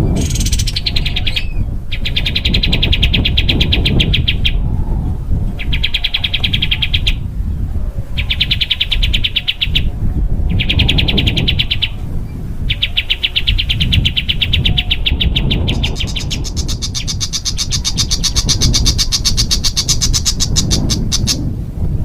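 Small songbird giving rapid, harsh trills ('tembakan'), five bursts of one to three seconds with short pauses between them. A longer, higher-pitched trill follows, lasting about five seconds. A steady low rumble runs underneath.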